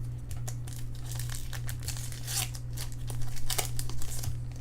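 Foil wrapper of a pack of 2013 Bowman Draft baseball cards being torn open and crinkled by hand: a run of sharp crackles that grows denser and louder in the second half, over a low steady hum.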